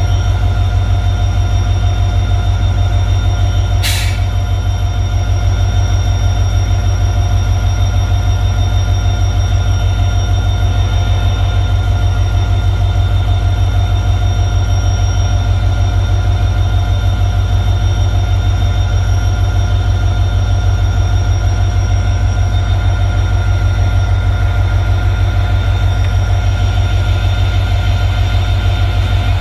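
Steady, loud rumble of a running train with a constant whine on top, unchanging throughout, and one sharp click about four seconds in.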